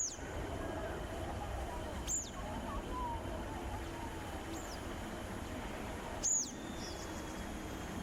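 Four short, high, thin bird chirps spaced a couple of seconds apart, each dropping sharply in pitch, over a steady low background hum.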